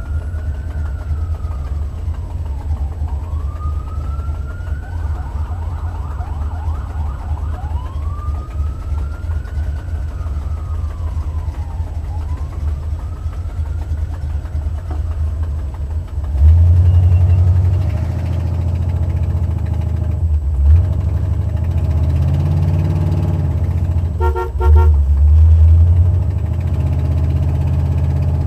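An emergency-vehicle siren wails up and down about every three seconds, with a brief fast warble, over the steady low running of a Buick 455 V8 whose #7 exhaust header gasket is blown. The siren fades out about halfway through and the engine gets louder as the car pulls away and speeds up, with a few short horn-like tones near the end.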